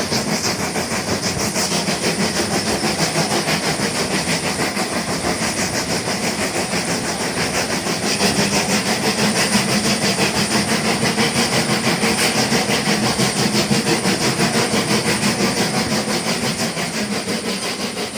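Steam locomotive working under way, its exhaust beating in a steady rhythm of a few chuffs a second over a hiss of steam; the beats grow louder about halfway through.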